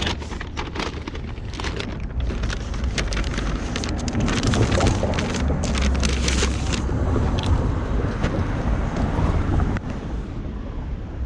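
Wind rumbling on a body-worn action camera's microphone, with many scattered clicks and knocks from handling or steps.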